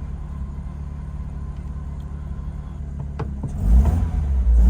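BMW E36 engine idling steadily, running with its MAF sensor unplugged and a hole in the intake, then getting louder about three and a half seconds in. A few faint clicks come just before.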